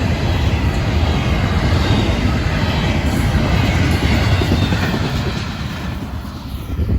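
Florida East Coast freight train's autorack and intermodal cars rolling past: a steady, loud rumble and clatter of steel wheels on the rails, easing off over the last couple of seconds.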